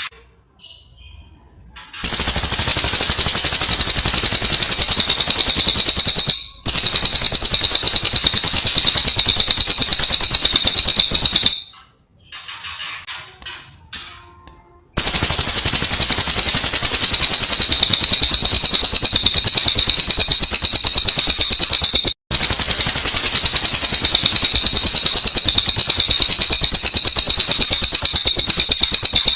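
Cililin bird song: long, loud, rapid high-pitched trills, each going on for several seconds without a pause, with quieter scattered chirps in the gaps between them.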